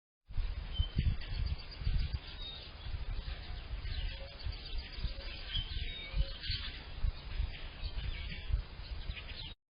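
Several small songbirds chirping and calling in short scattered notes, over a gusting low rumble of wind on the microphone.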